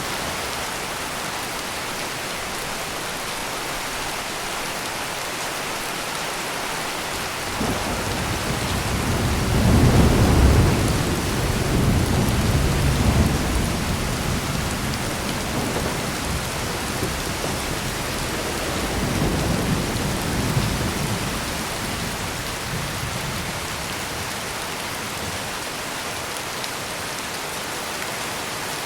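Steady heavy rain, with a long roll of thunder that builds about a quarter of the way in. It rumbles on, swells again past the middle, then fades back into the rain.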